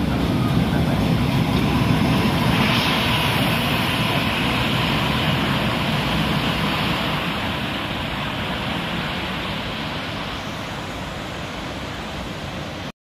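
Electric-hauled passenger train rolling past close by: a steady rumble of wheels on rail with a hiss added about three seconds in, fading slowly as the train moves away.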